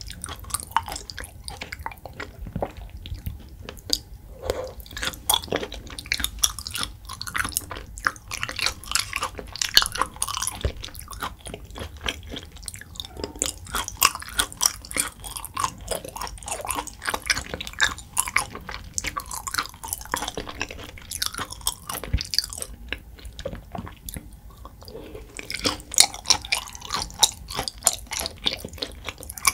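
Close-miked mouth chewing raw beef yukhoe, a dense run of small clicks and smacks that thins out briefly about halfway through and again near the end.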